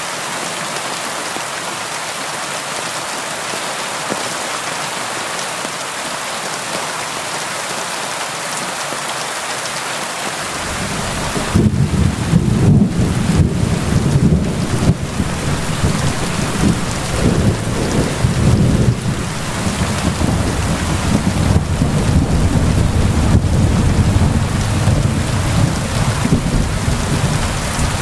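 Steady rain hiss, and about ten seconds in a long, deep rumble of thunder sets in and keeps rolling under the rain, louder than the rain itself.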